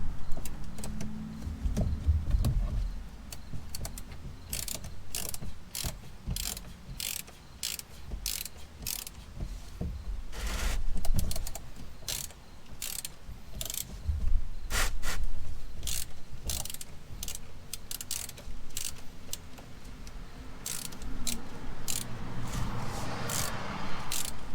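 A ratchet with a T55 Torx socket clicking in short, uneven strokes as it backs out the small drain plug on an oil filter housing.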